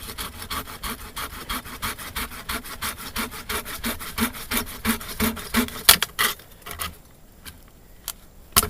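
Silky hand saw cutting through a tree limb in fast, even strokes, about five or six a second, which stop about seven seconds in. A few sharp knocks follow, then a louder crack near the end.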